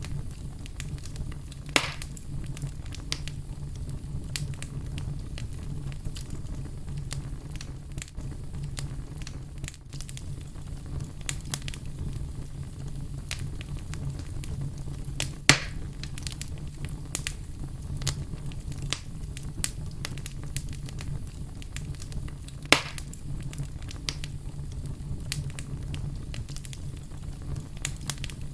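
Fire crackling, with a steady low rumble under many small sharp pops and ticks. Three louder pops stand out: one about two seconds in, one about halfway, and one about three quarters of the way through.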